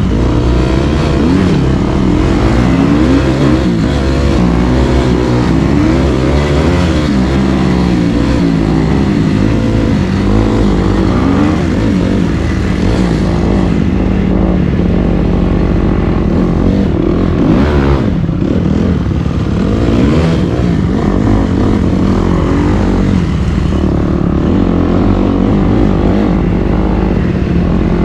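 Dirt bike engine under way, revving up and down again and again as the rider works the throttle through the terrain.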